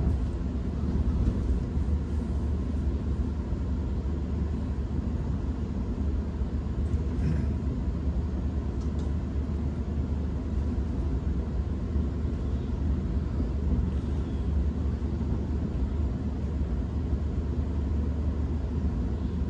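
Electric suburban passenger train running along the line, heard from inside the carriage: a steady low rumble of wheels on track, with a few faint clicks about seven to nine seconds in.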